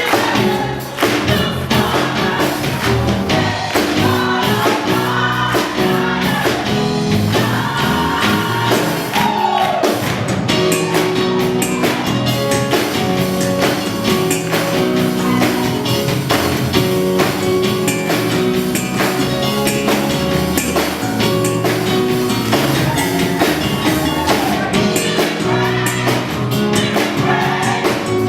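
Choir singing a gospel song with instrumental accompaniment and a steady beat.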